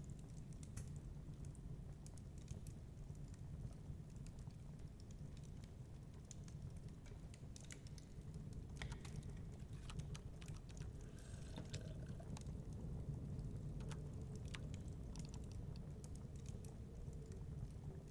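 Crackling wood fire: scattered small pops and snaps over a low, steady rumble of blizzard wind.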